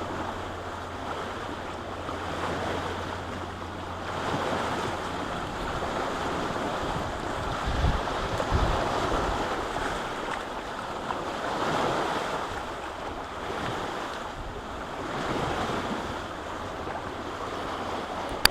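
Lake waves washing against the shore, the rush swelling and easing every few seconds, with wind buffeting the microphone.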